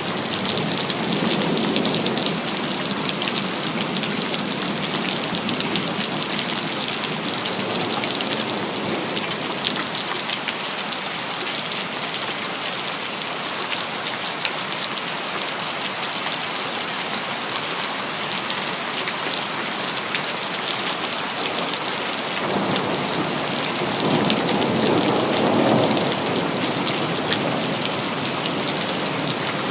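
Steady rain, with dense patter of drops hitting hard surfaces. About three quarters of the way through, a low rumble of distant thunder swells up and fades again.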